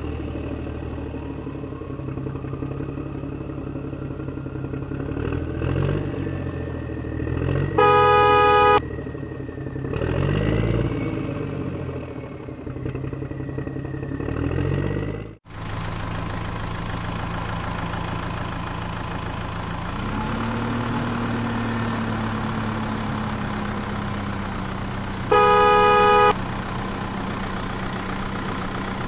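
A vehicle engine running steadily, with two horn blasts of about a second each, one about eight seconds in and one near the end. The engine sound cuts abruptly to a different, steadier hum about halfway through.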